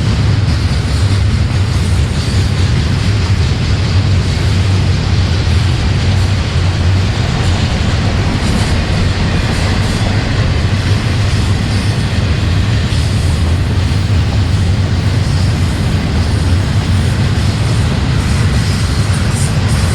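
Freight train rolling past, a steady loud rumble of wheels and cars on the track.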